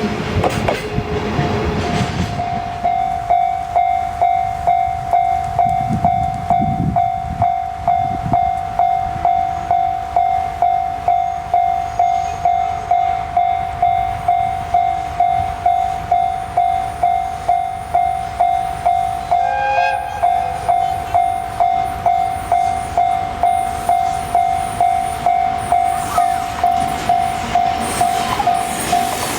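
A railway level-crossing warning bell ringing at an even pace of about two strikes a second, all on one pitch, over the rumble of a passing train.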